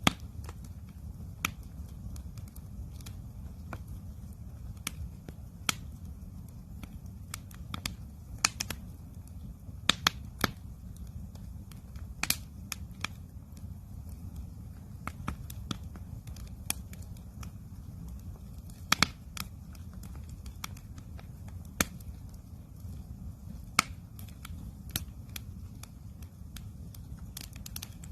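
Wood campfire crackling: irregular sharp pops and snaps, sometimes several in quick succession, over a steady low rumble.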